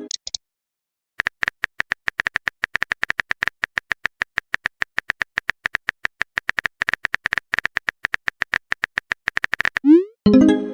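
A chat-app typing sound effect: a long, rapid run of short sharp clicks. Near the end it breaks off into a rising swoop and a short chime, a message-notification sound.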